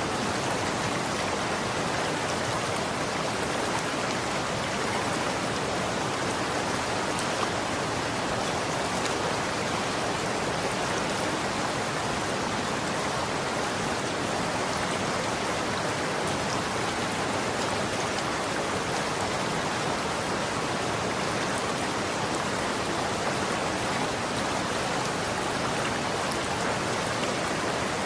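Running water: a steady, even rush of flowing water with no breaks or changes.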